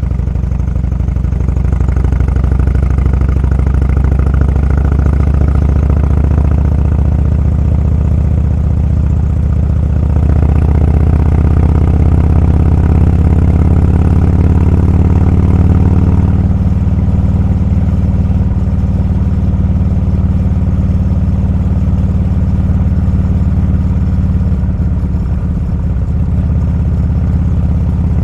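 Motorcycle engine running steadily under load on an uphill climb. It gets louder about ten seconds in and eases off about six seconds later.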